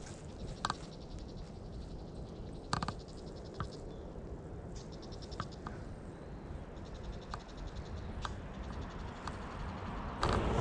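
Footsteps on a woodland path, with scattered sharp ticks over a low rumble, and now and then short runs of a high, rapid, evenly pulsing trill.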